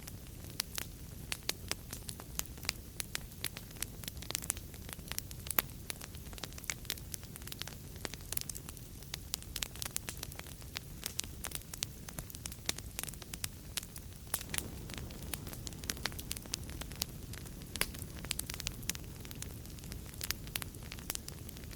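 Wood fire burning in a fireplace: a soft, steady rumble of flames with frequent irregular crackles and pops.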